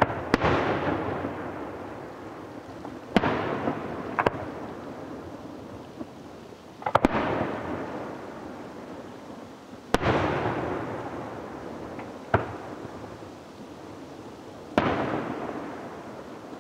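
Aerial fireworks shells bursting one after another, about eight sharp bangs roughly every three seconds, each followed by a rumbling tail that fades over a couple of seconds.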